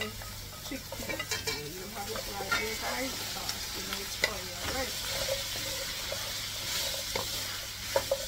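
Seasoned chickpeas and jackfruit pieces hitting the hot oil and onions in an aluminium pot and sizzling, then stirred with a wooden spatula that scrapes and knocks against the pot. A steady frying hiss runs under a few sharp knocks.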